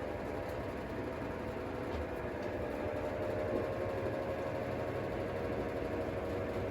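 Brastemp Clean 10 kg top-loading washing machine running: a steady motor hum with a constant whine.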